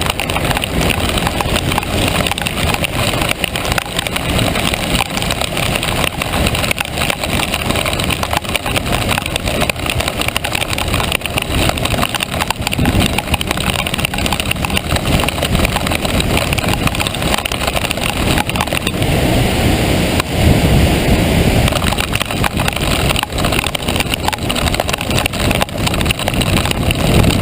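Steady traffic and road noise while travelling at speed along a wet expressway in the rain: tyres on wet pavement, wind and engine noise blended into a dense rush. A louder low rumble swells about twenty seconds in.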